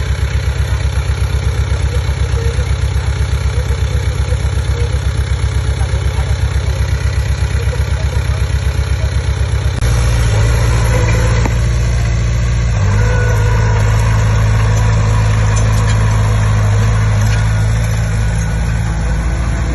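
Diesel engine of a Komatsu D20P bulldozer, first at a low speed with an even pulsing beat. About ten seconds in it throttles up to a louder, steadier run, as under load, and picks up a little more shortly after.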